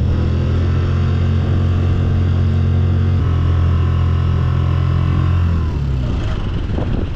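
Small 2-horsepower outboard motor running steadily under way, its note shifting slightly about three seconds in and dropping off about five and a half seconds in.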